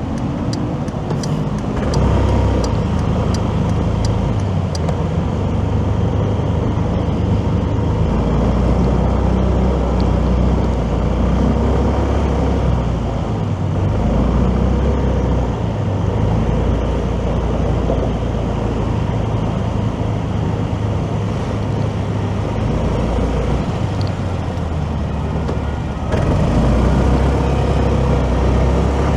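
Motorcycle engine and road noise while riding through city traffic, a steady hum whose pitch shifts as speed changes. A run of light ticks about every half second in the first five seconds, and the noise grows louder about 26 seconds in.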